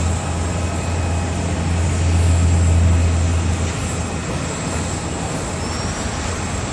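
Steady noise of a large jet airliner on the ground during pushback, a low hum that grows louder about two seconds in and eases off after about three and a half seconds, over a constant whine.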